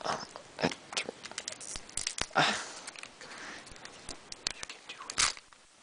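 Foil Pokémon booster pack crinkling and tearing as it is opened by hand, with scattered small crackles and a few louder rustles.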